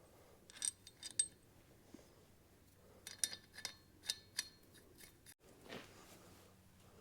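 Small metal parts and tools clinking and clicking in two short clusters of sharp taps, about a second in and again a few seconds later, with a slight metallic ring.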